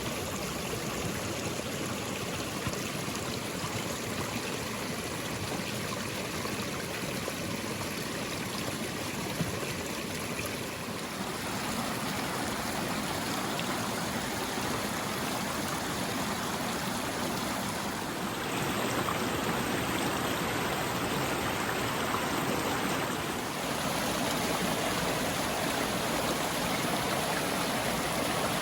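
A forest stream running, a steady rush of flowing water; its level and tone change abruptly three times.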